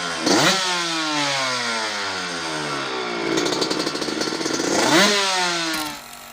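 Suzuki RM125 two-stroke motocross engine with a DEP Pipes expansion-chamber exhaust being revved: the revs rise sharply, fall away slowly, then build again to a peak about five seconds in before dropping off.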